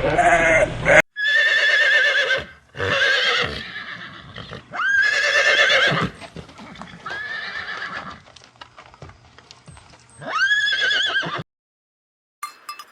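A horse whinnying, five separate calls with a quavering pitch. A different, rapid clattering sound starts just before the end.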